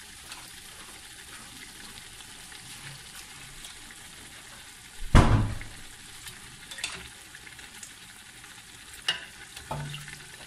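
Mutton pieces and masala sizzling in hot oil in a metal pot while a spoon stirs them, with one loud knock of the spoon against the pot about halfway and a few lighter clicks near the end.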